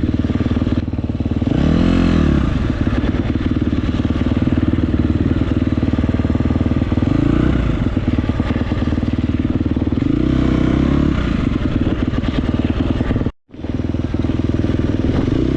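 A motorcycle-type engine running loud and steady, with its pitch rising and falling as it revs about two seconds in and again more briefly later. The sound cuts out for an instant near the end.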